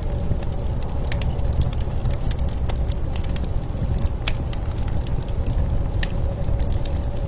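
Wood fire crackling, with scattered sharp pops, over a steady low rumble of blizzard wind.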